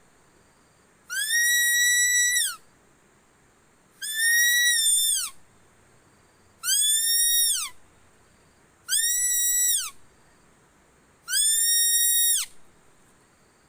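Animal lure call, five times in a steady series: each a clear, high whistle about a second long that rises, holds one pitch, then drops away at the end.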